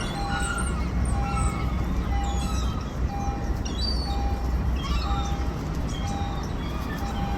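Birds calling in short chirps and whistles over a steady low rumble, with a short beep repeating about once a second.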